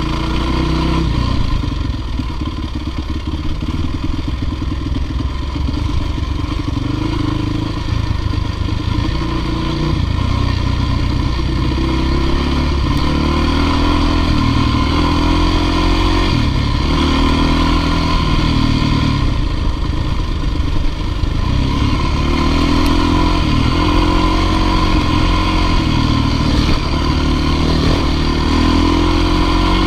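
Dirt bike engine running continuously, its revs rising and falling again and again every second or two.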